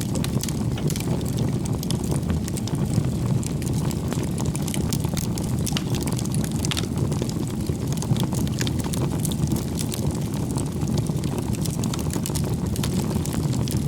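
Wood fire burning: a steady low rush of flame with frequent, irregular sharp crackles and pops from the burning firewood.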